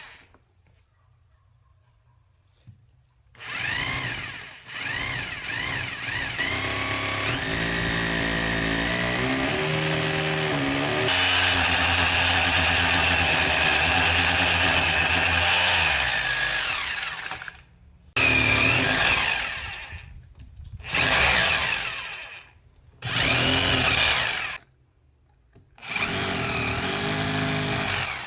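Electric drill boring holes: the motor spins up about three seconds in and runs for some fifteen seconds, its pitch rising and falling as it bites and frees. It then runs in four short bursts with pauses between.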